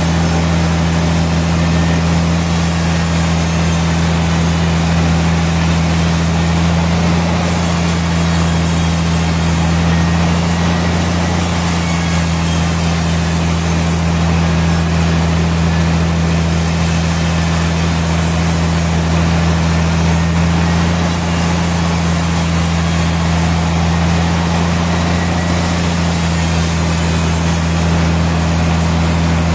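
Sawmill machinery running steadily, a constant low engine-like hum with an even wash of noise over it and no change in pitch or level.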